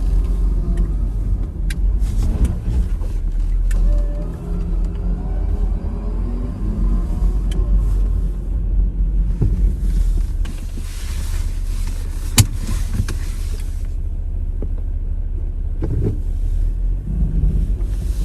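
Jeep Wrangler engine running, its revs rising and falling, with a sharp click about twelve seconds in.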